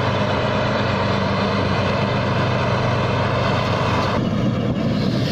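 Tai Seng rice combine harvester's engine and machinery running steadily under load as it harvests through deep mud. The higher hiss eases a little about four seconds in.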